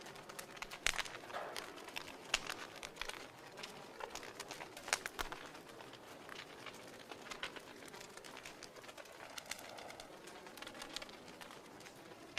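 Wood fire crackling in a fireplace, with irregular sharp pops over a soft steady hiss.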